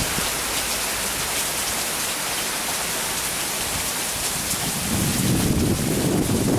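Rain falling steadily, a dense even hiss. About five seconds in, a low rumble swells up beneath it.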